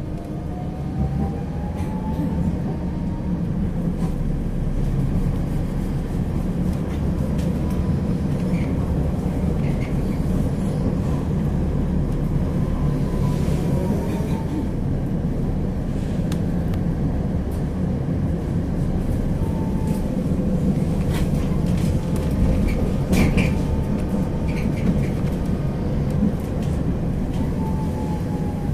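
Electric tram running on its rails, heard from on board: a steady low rumble, with the traction motors' whine rising as it speeds up near the start and end and falling as it slows around the middle. A cluster of sharp knocks comes about three-quarters of the way through, typical of wheels crossing rail joints or points.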